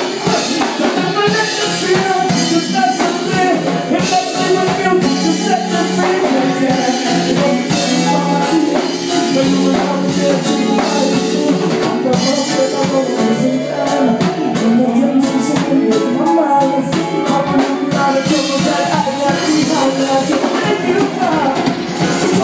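Live band playing a passage with no lead vocal: drum kit keeping the beat under bass and guitar.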